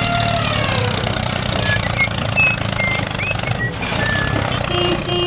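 A small engine running steadily, with short high chirps over it.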